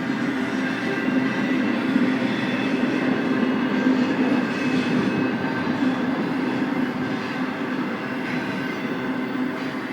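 BNSF freight train rolling past steadily, a continuous rumble of cars and wheels on the rail with a steady low hum under it.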